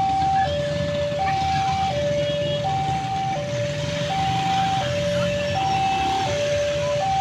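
Railway level-crossing alarm sounding its repeating electronic two-tone warning, a lower and a higher note alternating evenly about every 0.7 s, over a low rumble of road traffic.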